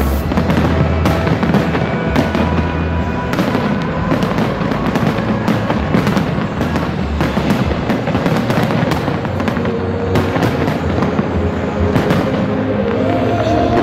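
Fireworks display: a steady run of sharp bangs, about two or three a second, with music playing alongside.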